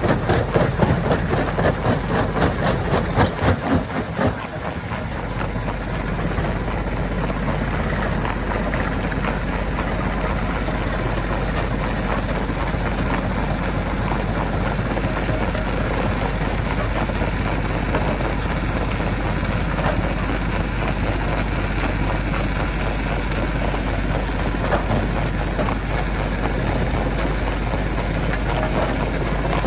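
A heavy engine running steadily, with a rapid rattle of many quick knocks for the first four seconds or so.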